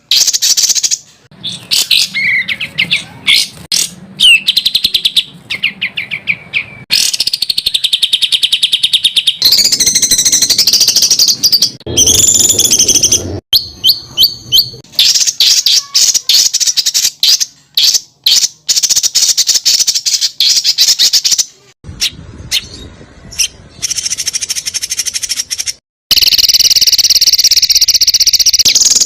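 Spliced recordings of songbirds singing rapid, high-pitched trills and fast repeated 'shot' phrases, with abrupt cuts from one bird to the next several times. This is edited bird-training ('masteran') audio made to teach caged competition birds.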